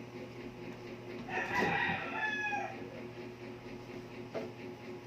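A single drawn-out, crow-like bird call, about a second and a half long, starting a little over a second in, over a steady low hum.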